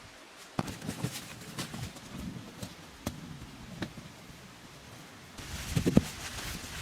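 Irregular knocks and thuds of hand work, a sharp strike every half second to second, with a louder cluster of thumps near the end.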